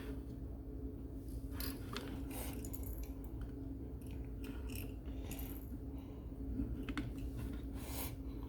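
Small plastic toy pieces being handled and set down: scattered light clicks and rustles over a steady low hum.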